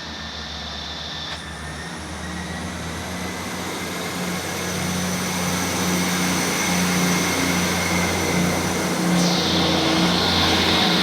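Passenger train pulling away from the platform, its running noise growing steadily louder, with a faint whine that rises in pitch as it accelerates.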